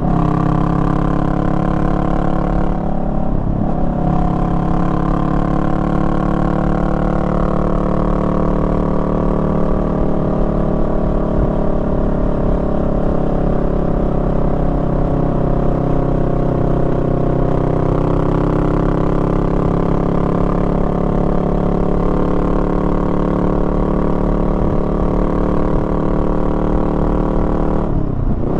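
Honda Rebel 500's 471 cc parallel-twin engine running under way on a winding road. The pitch sinks slowly, then climbs again. The note dips briefly about three seconds in and again near the end.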